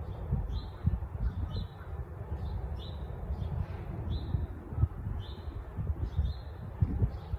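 A small bird calling over and over, one short high chirp roughly once a second, over a steady low rumble.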